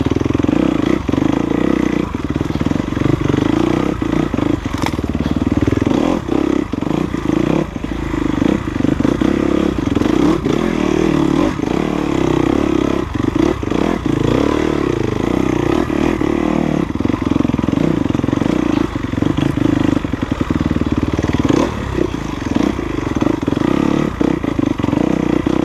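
Enduro dirt bike engine running continuously on a trail ride, its note dipping briefly many times.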